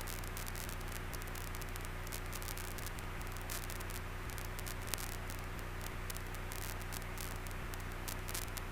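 Steady hiss over a low hum, with a few faint clicks: cockpit noise in a 1947 Luscombe 8E gliding with its engine throttled back for a simulated engine failure.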